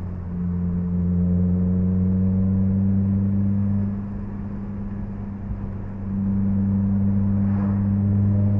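Honda Civic Si's K20Z3 2.0-litre four-cylinder engine running at a steady cruise, a low, even drone heard inside the cabin. The drone eases for about two seconds around the middle, then picks back up.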